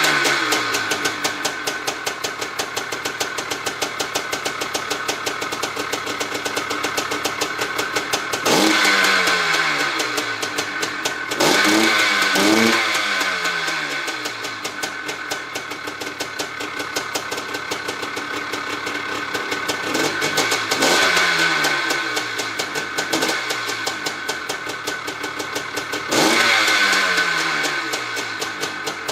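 1985 Maico 500's big two-stroke single-cylinder engine running at a fast idle. The throttle is blipped several times, and each sharp rise in revs falls back slowly to idle.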